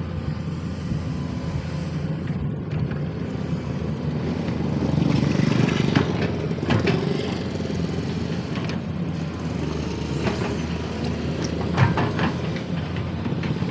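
SANY SY215C hydraulic excavator's diesel engine running steadily while digging, swelling a little midway, with a few short knocks or scrapes.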